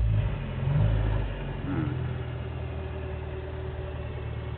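1993 Kia Pride's 1.3-litre four-cylinder engine being blipped with the gas pedal, then dropping back about a second and a half in to a steady idle.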